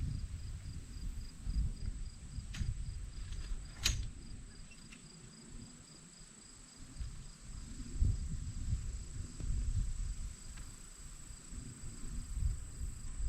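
Crickets trilling steadily, with an uneven low rumble underneath and a few sharp clicks about two and a half and four seconds in.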